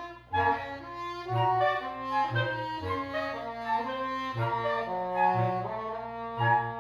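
Woodwind quintet playing live: several instruments hold notes together over a short low note repeated about once a second, after a brief gap near the start.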